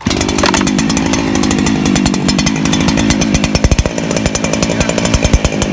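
Two-stroke chainsaw on a portable chainsaw mill starts abruptly and runs loudly at speed, its engine note shifting a few seconds in.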